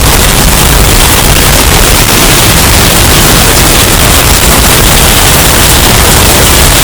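Hurricane wind sound effect, bass-boosted and heavily distorted: a steady, very loud wash of noise with no breaks.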